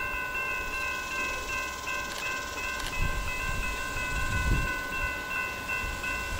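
Trinity Railway Express commuter train passing, with a grade-crossing warning bell ringing steadily in a quick repeating pattern. The train's low rumble swells about three seconds in and fades after about five.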